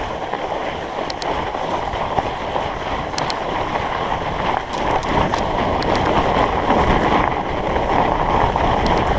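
Steady rolling hiss and rumble of studded fat-bike tyres (45NRTH Dillinger 5) on an icy snow trail, with wind on the microphone and a few faint, sharp clicks scattered through it.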